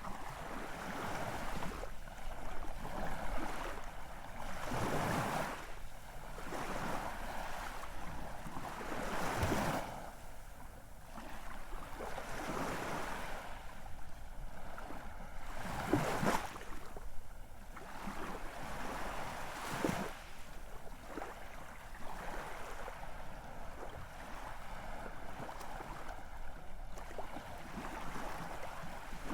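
Ocean surf: a steady wash of waves with several stronger surges as swells break and run up the shore.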